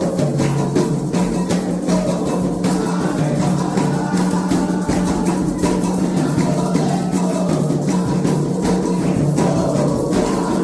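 Candomblé ritual music: atabaque hand drums played in a fast, steady rhythm with a rattling shaker, under voices singing.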